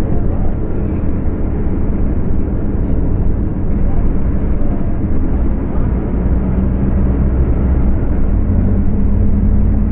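Scania K250UB city bus's diesel engine running under way at high revs, a loud steady drone with a slight dip in level around three to four seconds in.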